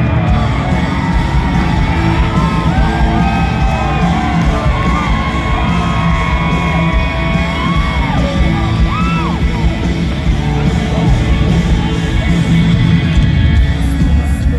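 Live rock band playing in a large hall, with the crowd yelling and whooping over the music; the shouts thin out after about nine seconds.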